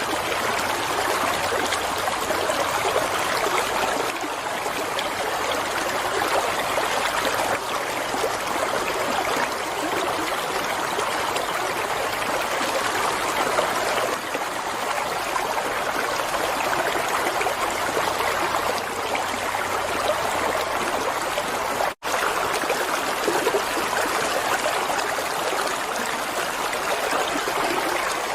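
Flowing water running steadily, an even rushing and trickling like a stream, with a split-second gap in the sound about three-quarters of the way through.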